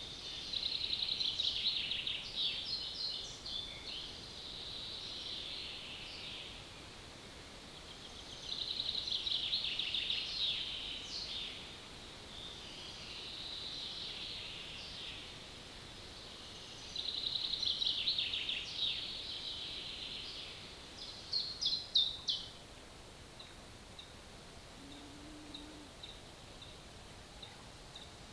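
A songbird singing short, high, trilled phrases of two to four seconds, repeated every few seconds, with a burst of sharp loud notes about three quarters of the way through.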